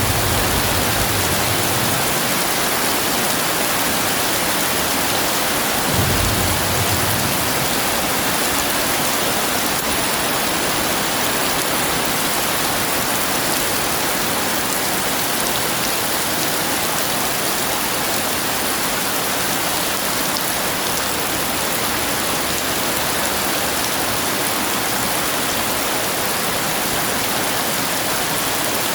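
Heavy rain falling steadily, with a distant thunder rumble fading out at the start and a brief low rumble about six seconds in.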